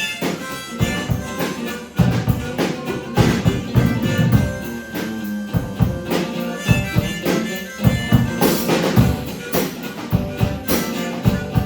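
A band playing an instrumental passage, with drums keeping a steady beat under sustained instrument notes.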